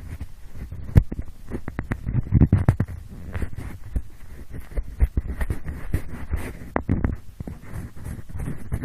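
Pencil scraping and rubbing close against the microphone in an ear-cleaning style, with irregular scratches and sharp clicks over a low rumbling rub.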